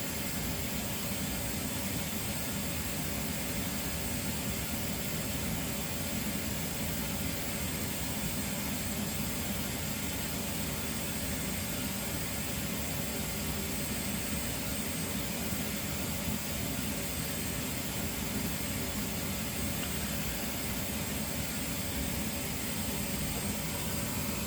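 Steady, even background hiss with a faint hum, unchanging throughout, with no distinct events.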